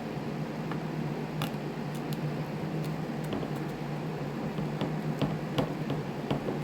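Small parts and hand tools clicking and tapping as a string trimmer is taken apart, a dozen or so irregular light clicks over a steady low hum.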